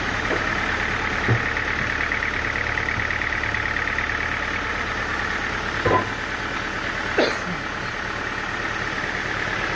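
An engine running steadily at idle, with three short sharp knocks of metal or wood spread through it.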